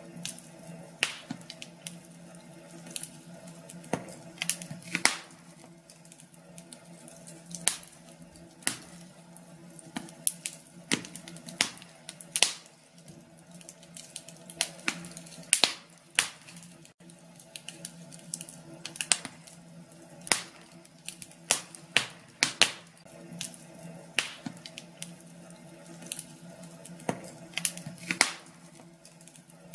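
Wood fire in a fireplace crackling, with irregular sharp pops and snaps, several a second and some much louder than others, over a faint steady hum.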